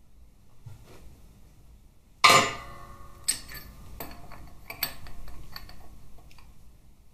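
A loud ringing metal clang about two seconds in, followed by a string of lighter clinks and knocks: steel parts and press tooling being handled just after a bearing has been pressed out of the gearbox case.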